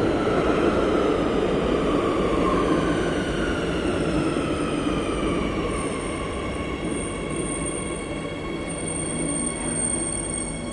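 Madrid Metro Line 8 train running, its motor whine sliding down in pitch over several seconds as the train slows, over steady rumbling running noise. A thin high whine holds steady from about four seconds in.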